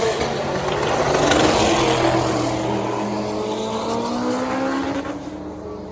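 Drag race car accelerating hard down the strip, its engine note climbing steadily as it pulls away and fading near the end.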